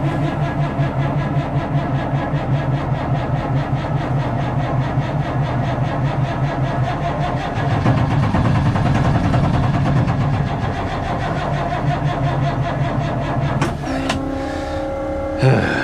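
Truck starter cranking the engine in one long, evenly pulsing stretch of about fourteen seconds without the engine catching: a truck that won't start. Near the end the cranking stops and a steady hum is left, with a brief sweep in pitch.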